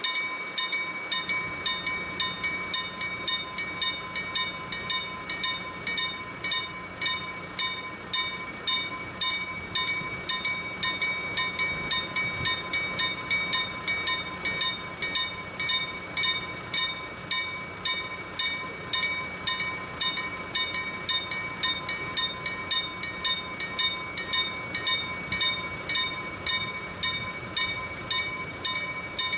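Level crossing warning bell ringing steadily at about two strikes a second, over the low rumble of a freight train's wagons rolling past.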